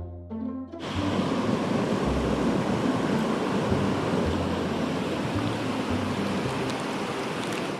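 Mountain stream water rushing, a steady loud noise that comes in suddenly under a second in, with background music carrying on faintly beneath it.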